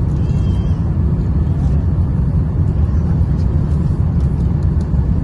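Airliner cabin noise: a steady low rumble from the engines and airflow, with a few faint clicks.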